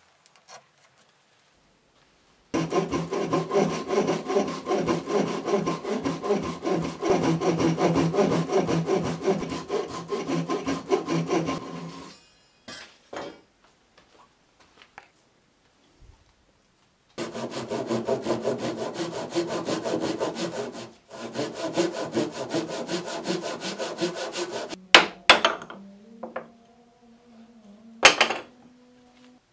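Japanese hand saw cutting hardwood in two long spells of fast, even strokes, with a few sharp wooden knocks near the end.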